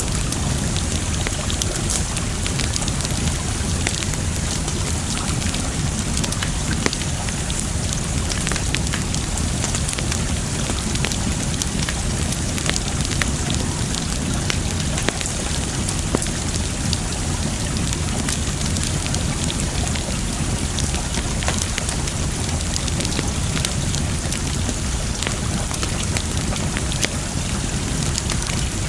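Wood fire crackling, with scattered sharp pops, over a steady rush of water.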